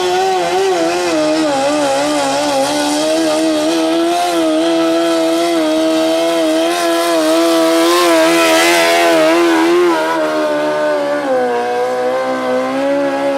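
Engine of a modified 1981 Cub Cadet 682 pulling lawn tractor running at high revs under full load as it drags the sled down the track. Its pitch wavers throughout, sags about eleven seconds in, and then climbs again near the end.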